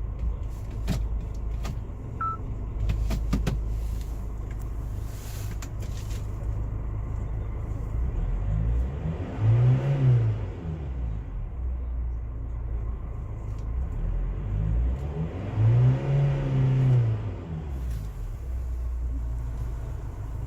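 SsangYong Korando turbo diesel engine idling with a steady low rumble, revved up and let fall back twice. There are a few sharp clicks near the start.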